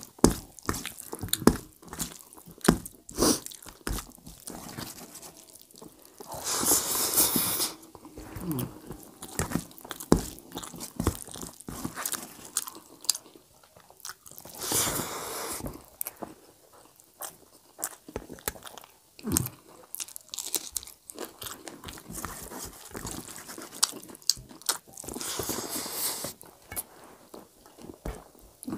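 Close-up chewing of a person eating rice with dum aloo by hand: a steady run of short, wet mouth clicks, with three longer noisy sounds of about a second each spread through.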